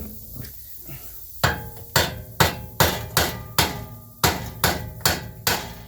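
Hammer striking the metal of a car's rear wheel hub assembly, each blow followed by a short metallic ring. There are about a dozen strikes at two to three a second, starting about a second and a half in.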